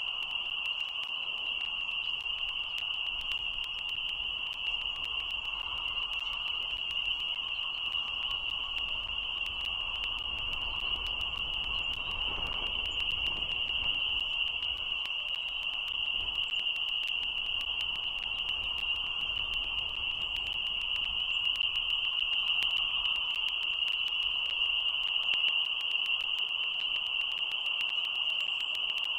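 A dense chorus of frogs calling continuously, forming a steady high-pitched din with a fainter lower chorus beneath it.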